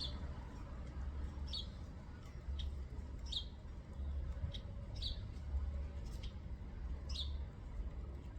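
Small bird giving short, high chirps about once a second, each dropping slightly in pitch, over a low steady rumble.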